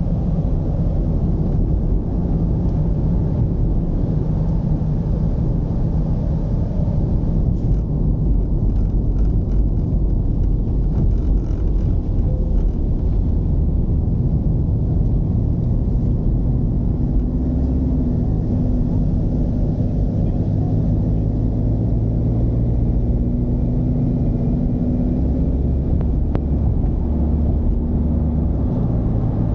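Mercedes-Benz V220 d van's four-cylinder diesel engine running under way with road rumble: a continuous low drone whose engine tones hold steady through the second half.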